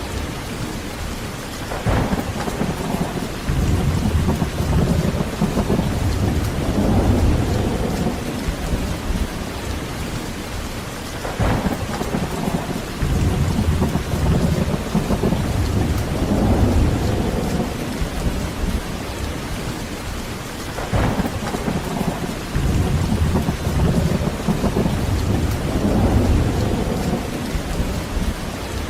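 Heavy, steady rain with thunder. Three sharp thunderclaps come about every ten seconds, each followed by several seconds of low rolling rumble.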